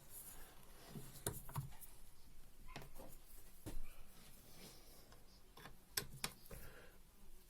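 A handful of scattered light metallic clicks and taps as a homemade special wrench is fitted to the nut of a Bosch common rail diesel injector to unscrew it.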